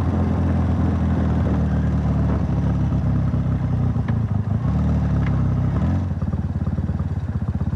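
Classic motorcycle's twin-cylinder engine running on a test ride, its pitch rising and falling with the throttle. About six seconds in it drops to a slow idle of separate firing pulses, an idle that does not run smoothly.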